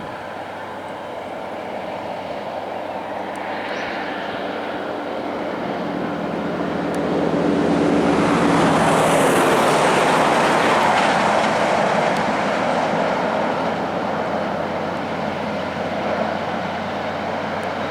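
Kenworth T909 truck hauling a CAT off-road water truck driving past: diesel engine and tyre noise build, loudest about halfway through, then ease off a little.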